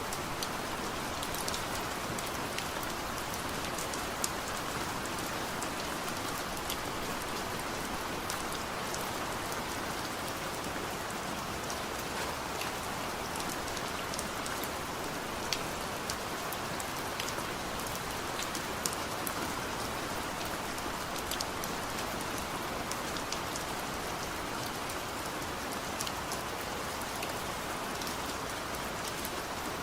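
Steady heavy rain falling, a constant hiss with many individual drops ticking on a surface; no thunder.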